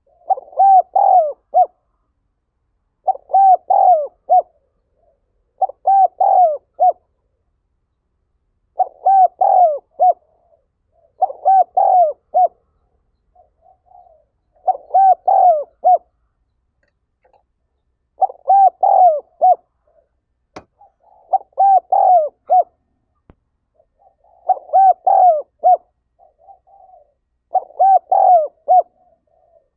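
Spotted dove calling its cooing song over and over, about ten phrases of a few quick rolling coos, one roughly every three seconds, with softer low coos in between. A single sharp click about two-thirds of the way through.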